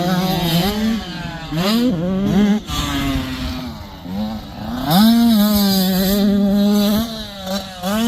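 85cc dirt bike engine revving hard, its pitch climbing and dropping again and again as it shifts through the gears. Near the middle it holds a steady high rev for a couple of seconds before backing off.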